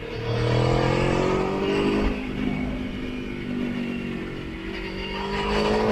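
Motorcycle engine accelerating on the road. After a brief drop in sound at the start, the pitch climbs for about two seconds, eases off through the middle, and climbs again near the end.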